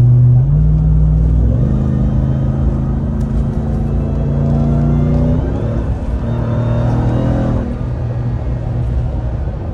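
Ram TRX's supercharged 6.2-litre V8 running under way while towing a trailer, a steady drone whose pitch shifts in steps several times, with road rumble underneath.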